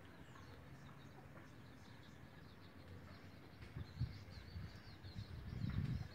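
Faint background with small, distant bird chirps. Low bumps and rumble grow from about four seconds in.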